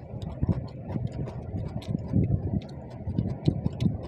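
Close-miked eating sounds of people eating rice by hand: irregular chewing with many small wet mouth clicks and smacks, over soft low thuds.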